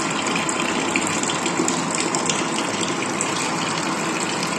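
Steady gush of water from a small electric water pump that an automatic water-level controller has switched on to refill the tank.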